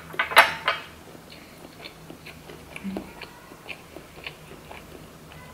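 A person biting into and chewing a piece of California roll sushi. There are a few sharp clicks in the first second, then faint, irregular chewing sounds.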